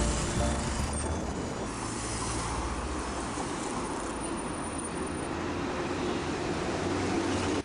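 Steady rushing background noise with a low rumble, cutting off abruptly at the end.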